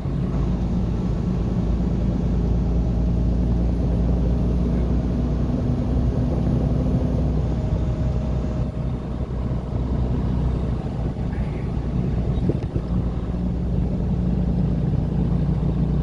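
Steady low engine and road rumble of a car driving, heard from inside the cabin.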